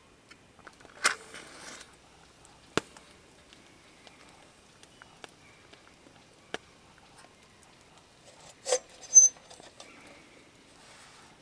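Campfire crackling: a few scattered sharp pops and snaps from the burning wood, the two loudest close together near the end.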